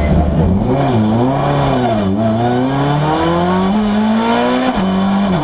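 Citroën C2 R2 Max rally car's 1.6-litre four-cylinder engine, heard from inside the cockpit. The revs dip twice early on, climb steadily in a long pull, then drop sharply near the end.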